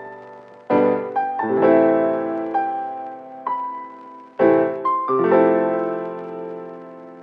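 Slow, gentle piano music: chords struck about every few seconds with single notes between them, the last chord ringing out and dying away near the end.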